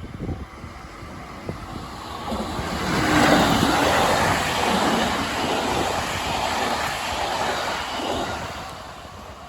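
Local electric train on the JR Tokaido Main Line passing the level crossing: its rolling noise swells about three seconds in, stays loud for several seconds and fades away near the end.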